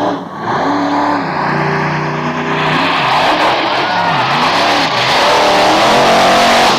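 Monster truck engine revving hard during a timed run, its pitch climbing and dropping again and again as the throttle is worked, getting louder toward the end.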